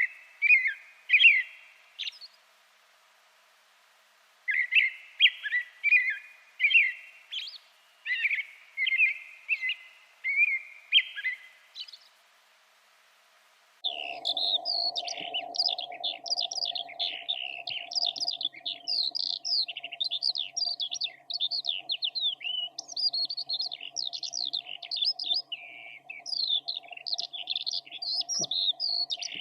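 A songbird sings a short phrase over and over, about nine times in two groups. After a pause of about two seconds, a different songbird takes over with rapid, continuous high twittering over a steady low hum.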